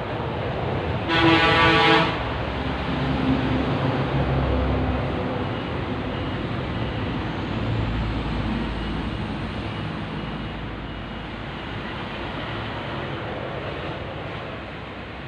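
A vehicle horn sounds once, about a second long, about a second in, over steady road-traffic noise with engine rumble from vehicles passing.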